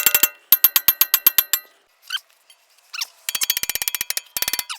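Hand ratchet wrench clicking in quick runs of about ten metallic clicks a second, stopping for a moment in the middle and starting again.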